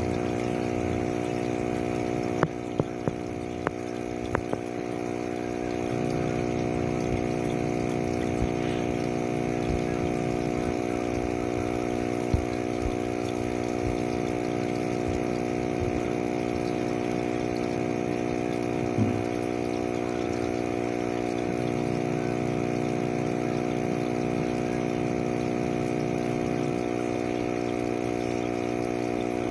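Steady mechanical hum from a small motor, with a handful of sharp clicks about two to four seconds in.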